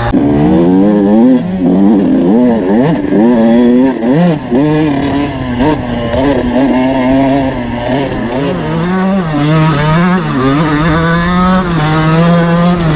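Small single-cylinder two-stroke motocross bike engine revving up and down again and again as the throttle is worked on the trail, with a steadier stretch in the middle.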